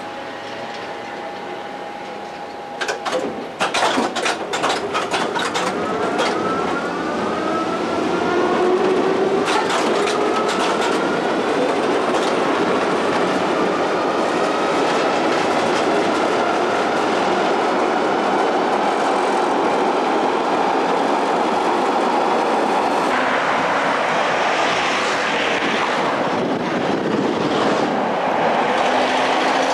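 Electric rail vehicle pulling away. A rapid run of clicks from about three seconds in, then a whine rising in pitch as it gathers speed, settling into steady running noise on the rails.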